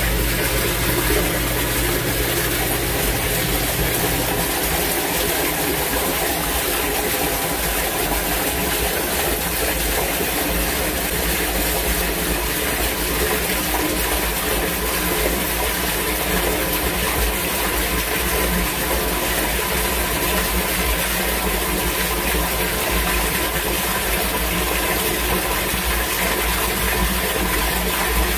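Steady rush of torrential rain and water pouring through an outdoor drainage and sump pump system, with a faint steady hum beneath; a low hum drops out about four seconds in.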